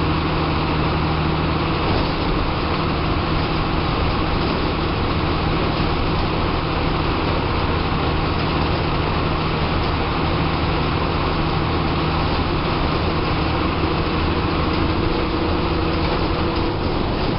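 TSRTC bus's diesel engine running steadily under way, its low hum mixed with road and cabin noise inside the driver's cabin; the engine note shifts a little about fifteen seconds in.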